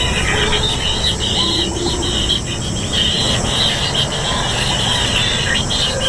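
Kingfisher nestlings giving a continuous rasping, buzzy begging chorus that flickers as several chicks call over one another, over a steady low rumble.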